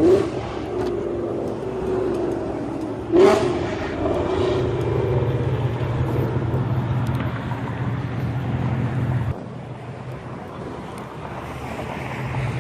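Car engine running, revved briefly twice about three seconds apart, with a steady low engine hum that cuts off suddenly about nine seconds in.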